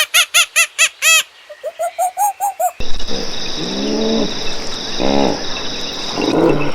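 A farm bird calling in quick, repeated short notes, about four a second. A little under three seconds in, the sound cuts abruptly to a different recording: a few lower, drawn-out animal calls over a steady high whine.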